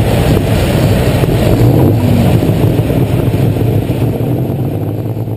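Light Super Stock pulling tractor's engine running loud and steady under load, easing off gradually over the last couple of seconds.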